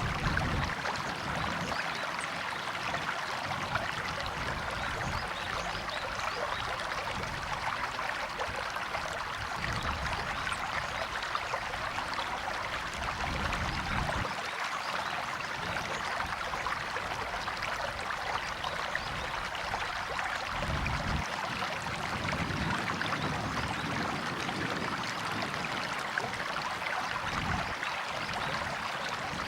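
River water running and babbling, a steady rushing with a faint low rumble now and then.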